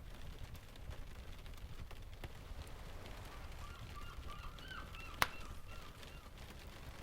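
Rain and ocean ambience: a steady low rumble of surf with scattered small ticks, and a string of short bird calls from about three seconds in until about six seconds. A single sharp click, the loudest sound, comes just after five seconds.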